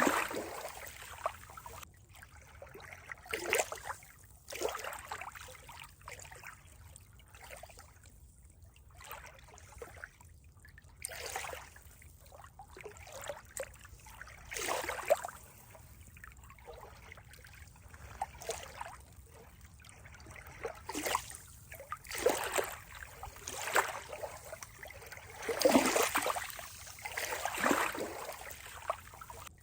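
Water trickling and lapping in irregular splashes, each a second or two long, with quieter gaps between them.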